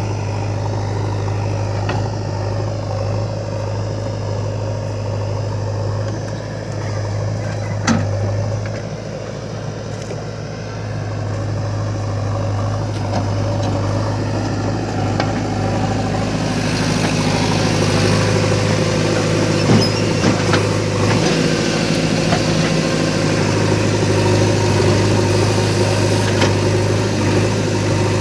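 Diesel engines of a backhoe loader and a tractor running steadily at work. The sound grows louder and busier about halfway through, with a single knock about a third of the way in.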